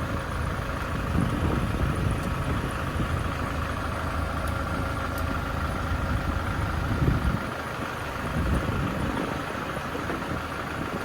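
Farm tractor engine running steadily at idle, with a brief louder low bump about seven seconds in.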